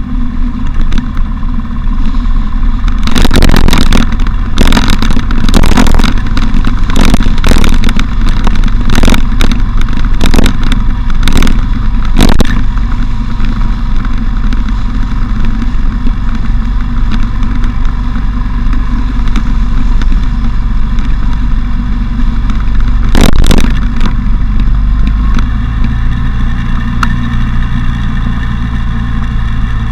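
Motorcycle engine running steadily under road and wind noise, the bike ridden with its windshield removed. A quick run of sharp knocks and thumps comes from about three to twelve seconds in, another pair about twenty-three seconds in, and the engine note shifts lower near the end.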